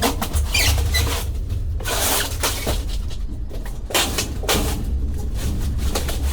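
Large boxed refrigerators being handled, with repeated scraping, rubbing and knocks at irregular moments, over a steady low rumble.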